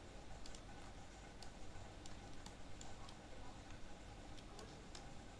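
Faint, irregular light clicks, a few a second, over a low steady hum.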